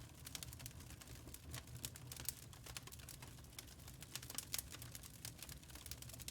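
Fire in a fireplace crackling: quick, irregular snaps and pops over a low, steady rumble.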